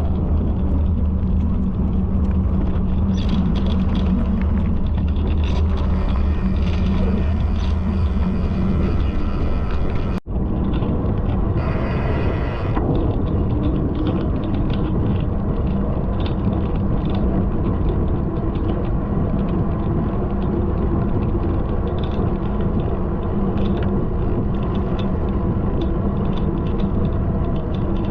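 Steady loud low rumble, with a momentary dropout about ten seconds in and a short higher-pitched sound about two seconds after that.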